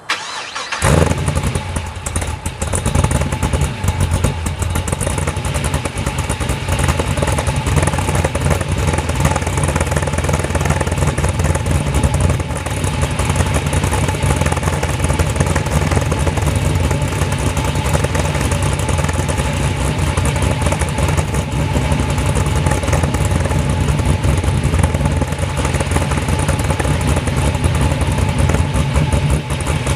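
A 2004 Pontiac GTO's 5.7 L LS1 V8 through long-tube headers and a MagnaFlow 3-inch cat-back fires up about a second in and settles into a steady, loud idle. The idle is lumpy, as expected from its aftermarket camshaft.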